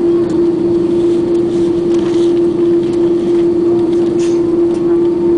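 Steady cabin noise inside an Airbus A330: a constant hum holding one even tone over rushing air, with a few faint clicks.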